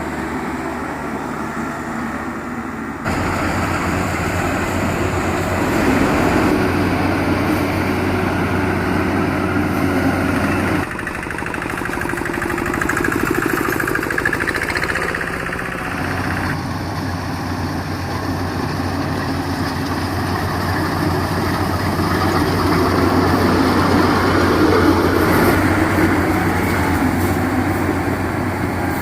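Rice harvester machine running steadily, a loud engine hum with mechanical noise over it; the sound changes abruptly about three, eleven and sixteen seconds in.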